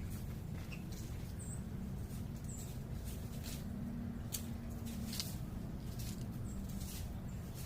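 A few short, high chirps from small wild birds, spaced a second or more apart, over a steady low urban rumble, with scattered soft ticks.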